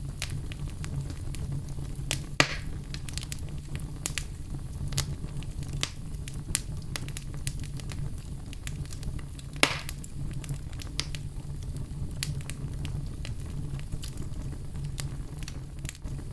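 Wood fire burning in a fireplace: a steady low rumble of flame with frequent small crackles, and two louder pops, one about two seconds in and one near ten seconds in.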